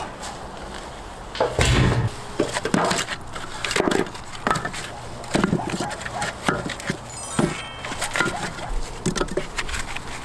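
Irregular wooden knocks and clatter of firewood being handled and laid to build a campfire.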